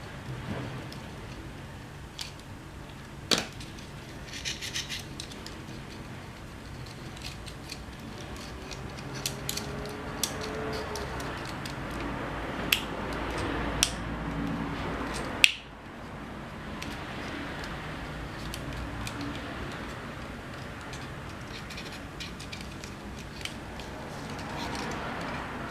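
Scattered sharp clicks, ticks and light scraping of small tools and plastic parts being handled while an SG900-S drone is repaired, with one loud click about fifteen seconds in.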